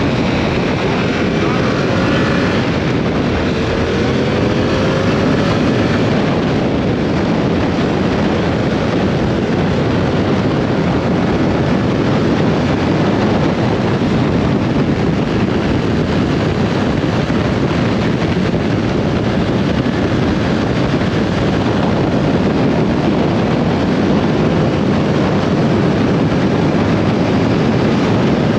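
Yamaha R7's parallel-twin engine and wind rushing over the microphone while riding, a steady loud rush of wind and engine noise, with a brief rising engine note a few seconds in.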